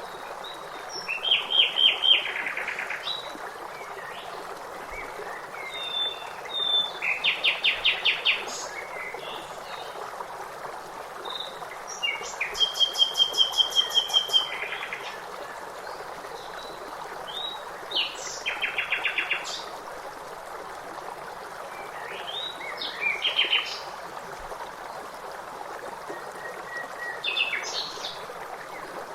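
Songbirds singing short phrases of rapid repeated notes, one every few seconds, over a steady background rush of running water.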